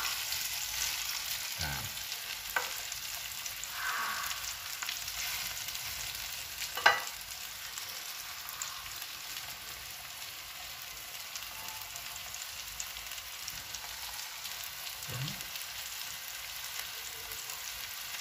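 Breaded chicken cutlets sizzling as they shallow-fry in a little oil in a nonstick frying pan. A few sharp clicks come over the steady sizzle, the loudest about seven seconds in.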